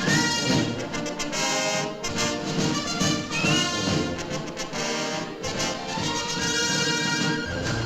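Orchestral cartoon music led by brass, with trumpets and trombones playing a lively theme.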